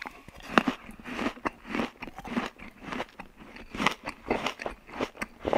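Biting into and chewing corn on the cob: a run of irregular short bites and chews of the kernels.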